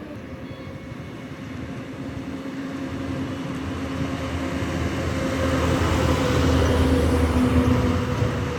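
A road vehicle's engine and tyres with a steady hum, growing louder over several seconds, loudest about six to seven seconds in, then easing off as it passes.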